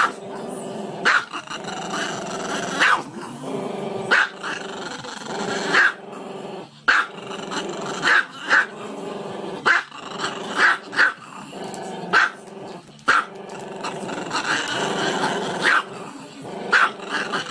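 Small long-haired black-and-tan dog barking sharply about once a second, with a steady low growl held between the barks.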